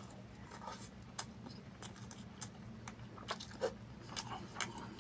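Close-up chewing of a mouthful of chicken biryani eaten by hand: faint, irregular wet mouth clicks and smacks.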